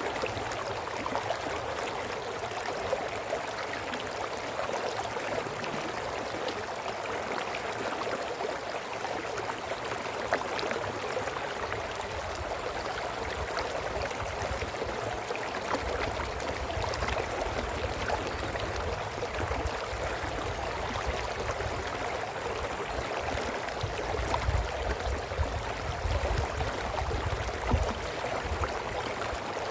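Brook water flowing and babbling over stones, a steady rush with fine splashy detail throughout. A low rumble comes and goes in the second half.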